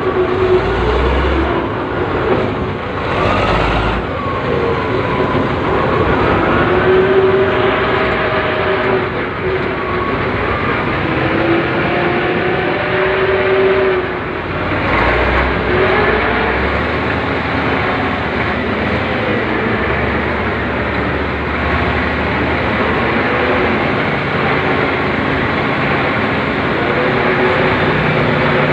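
Excavator engine and hydraulics working under load, a steady heavy-machine noise whose pitch keeps rising and falling as the machine digs.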